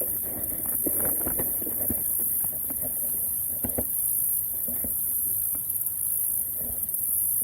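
A steady, high-pitched chorus of insects, with scattered small clicks and taps from close handling.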